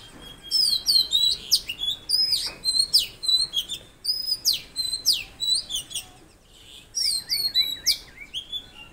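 Several songbirds singing busily: quick repeated chirps and whistled phrases, high-pitched and overlapping, with a run of about five short arching notes near the end. A faint steady rush of flowing water lies underneath.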